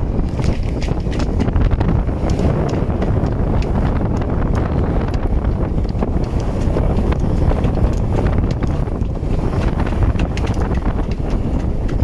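Strong gusty wind buffeting the microphone, a loud, fluttering low rumble that runs on without a break.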